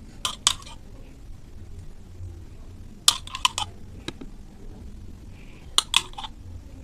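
A spoon clicking and tapping against a serving dish in three quick clusters of sharp clinks, about half a second in, about three seconds in and near the end, over a low steady hum.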